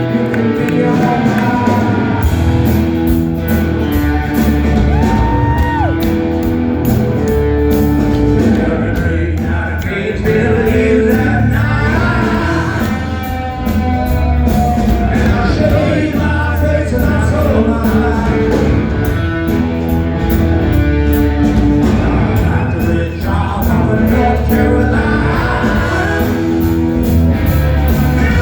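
Rock song playing loudly: singing over electric guitar, bass and drums, with a steady beat of drum and cymbal hits.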